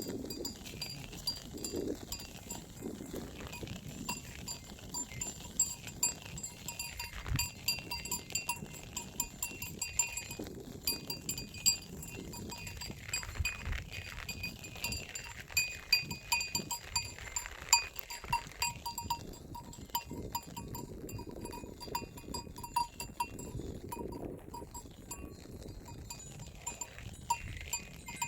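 A flock of sheep grazing, with the bells they wear jingling and clanking in irregular strokes throughout, and a few bleats near the start.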